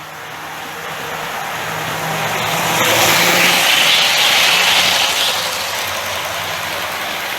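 Hornby R057 OO gauge 0-4-0 tank engine model hauling three coaches past on its track: a steady rolling rush of wheels on rail with a faint motor hum, building to its loudest about three to five seconds in, then easing off.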